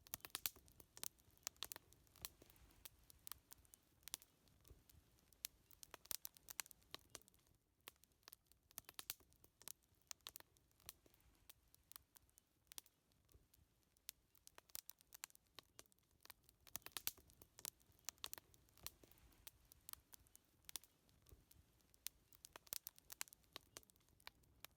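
Wood fire crackling: irregular sharp pops and snaps, several a second in clusters, over a faint low rumble.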